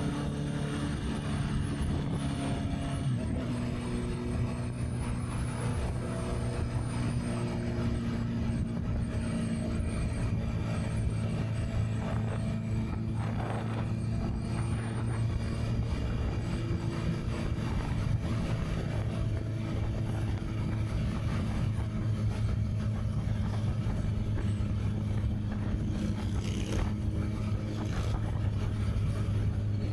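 Honda CB650R's inline-four engine running under way. Its note drops about three seconds in, then holds steady at cruising revs, with wind noise buffeting the action-camera microphone.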